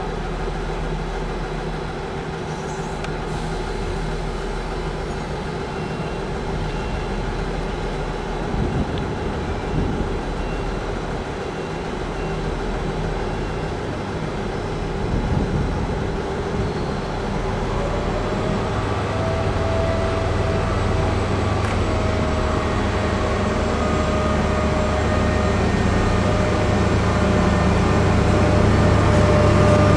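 Locomotive-hauled passenger train approaching slowly and running past, its low rumble growing steadily louder toward the end. A steady whine joins in about two-thirds of the way through.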